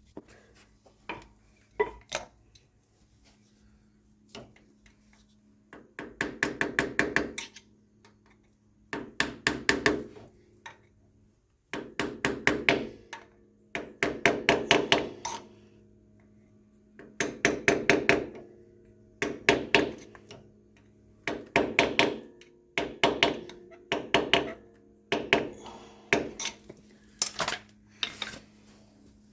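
Ratchet wrench clicking in quick runs about a second long, repeated every two to three seconds as a fastener on the tractor's rear axle is worked. A steady low hum runs underneath.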